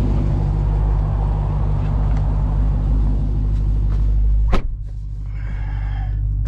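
The Dodge Challenger Hellcat's supercharged 6.2-litre Hemi V8, a new engine in its break-in, running with a steady deep rumble. A sharp click comes about four and a half seconds in, after which the rumble is slightly quieter.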